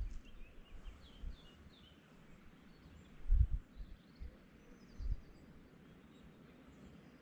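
Small birds chirping in the open air, with a run of quick chirps in the first second or so and fainter calls after. Two low rumbles sound at about three and a half and five seconds in, and they are the loudest things heard.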